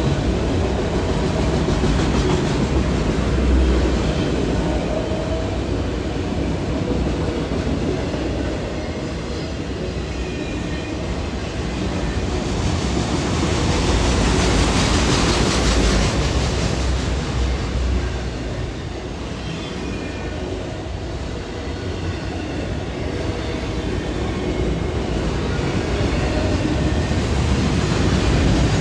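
Freight train of autorack cars rolling past at close range: a continuous rumble of steel wheels on the rails, with a brighter, hissier stretch about halfway through.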